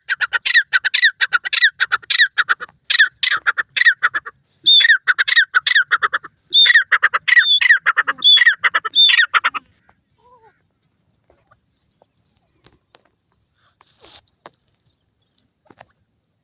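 Francolin (teetar) calling: a loud, fast run of harsh repeated notes in several phrases for about nine and a half seconds, then it stops, leaving only faint scattered ticks.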